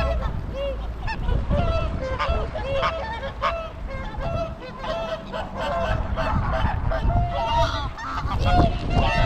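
A flock of geese honking, many short calls overlapping in quick succession, with wind rumbling on the microphone.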